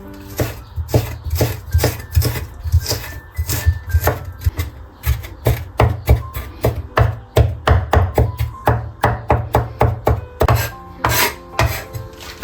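Knife chopping rapidly on a wooden cutting board, about three sharp strokes a second in an uneven rhythm.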